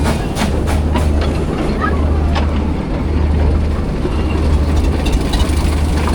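Miniature railway train running past, its wheels clicking over the rail joints, a run of clicks in the first half second and another about two and a half seconds in, over a steady low drone.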